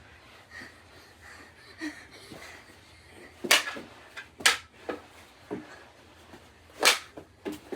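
Knee hockey play: mini hockey sticks and ball knocking, a scattering of sharp clacks with three louder ones in the second half.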